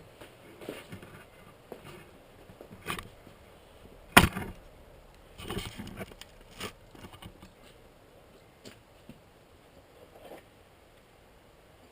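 Scattered light taps, clicks and scrapes of workshop handling, with one sharp knock about four seconds in and a short run of scraping and rustling soon after.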